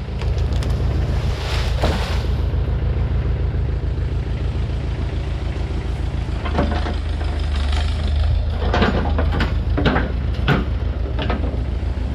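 Diesel engine of a digging machine running steadily, its note changing about six and a half seconds in, with a run of sharp clanks and knocks over the following few seconds.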